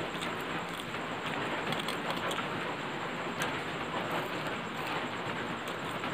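Steady rain falling, with a few sharp ticks now and then.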